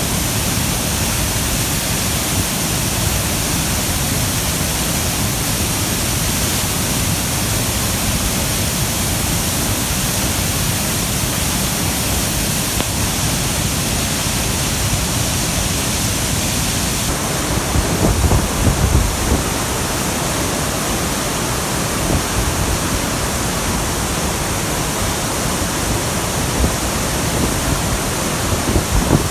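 Waterfall in heavy flow after rain, a steady, dense noise of falling water. About two-thirds of the way in the noise takes on a brighter tone, with a few brief low bumps.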